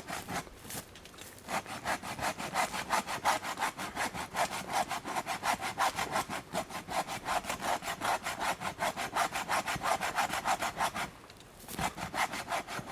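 Hand saw cutting through a standing tree's trunk to fell it, in quick, even back-and-forth strokes, several a second. The sawing stops about eleven seconds in and starts again briefly near the end.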